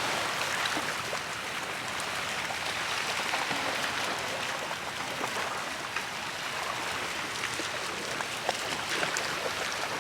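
Steady rush of sea water washing at the shore, with a few faint splashes.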